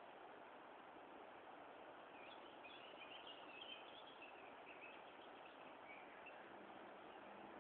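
Faint birdsong, short chirping phrases clustered around the middle, over a steady hiss of background noise.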